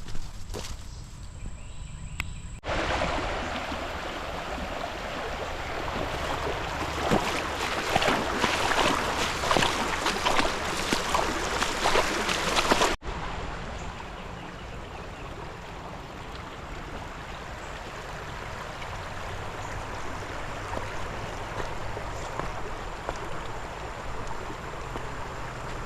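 Flowing creek water running steadily after high water, loudest in a stretch with many short crackles near the middle, then quieter after an abrupt cut. A few footsteps crunch through brush in the opening seconds.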